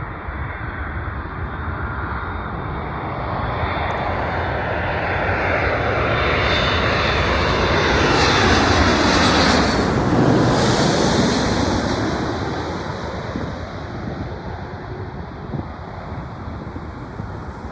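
Amazon Prime Air Boeing 767 freighter's jet engines passing close overhead on landing approach. The sound swells to a peak about nine to eleven seconds in, with the engine whine sliding down in pitch as it goes by, then fades away.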